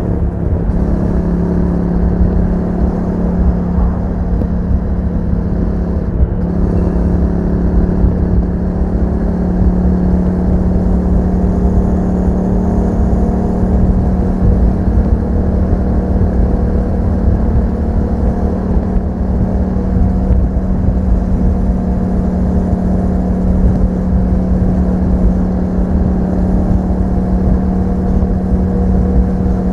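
2021 Yamaha MT-07's 689 cc parallel-twin engine through an Akrapovic exhaust with a dB killer, running at fairly steady revs while riding, with a brief change in the engine note about a second in.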